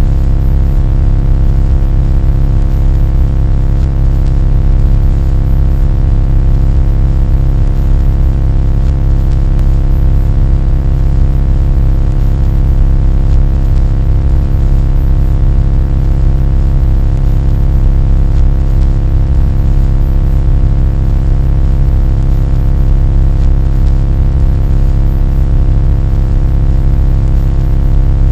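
Loud, steady low drone with many steady tones stacked above it, holding unchanged throughout.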